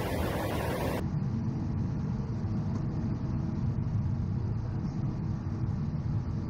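Steady cockpit noise of a Cessna Citation XL business jet on approach. A hiss cuts off suddenly about a second in, leaving a low, even rumble of engines and airflow.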